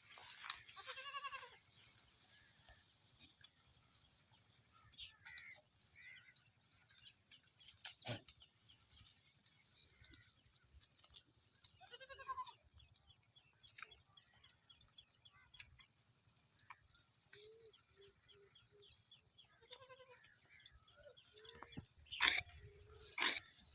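Goats bleating several times with wavering calls, including a quick run of short bleats, over a faint steady high hiss. A couple of sharp clicks near the end are the loudest sounds.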